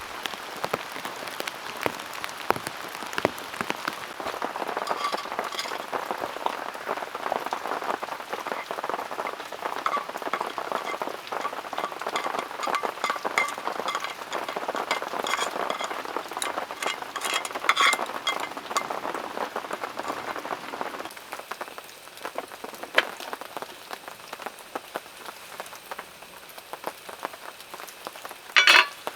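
Heavy rain falling, a dense patter of drops striking surfaces. It eases a little after about twenty seconds, and a short loud clatter sounds near the end.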